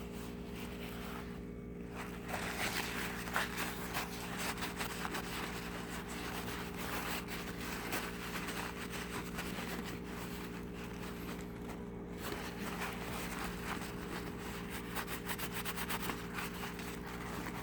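Paper napkin rubbing and scraping over a small die-cast metal car base as it is wiped dry after electropolishing, a dense scratchy rustle of small ticks. A steady low hum runs underneath.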